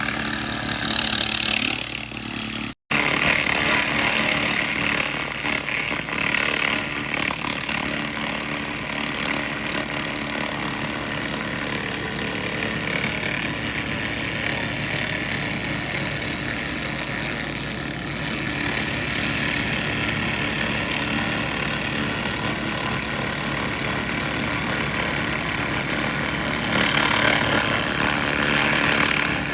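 SFX 2000 laser rust remover blasting rust off metal: a continuous hiss over a steady machine hum. It cuts out abruptly for a moment about three seconds in.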